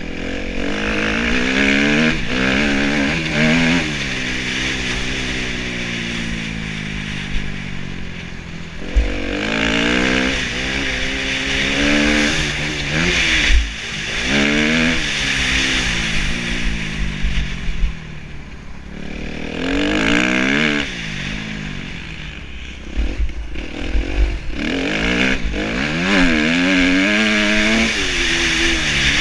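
Kawasaki KX250F single-cylinder four-stroke motocross engine ridden hard, its pitch climbing and falling again and again as the rider revs through the gears and backs off.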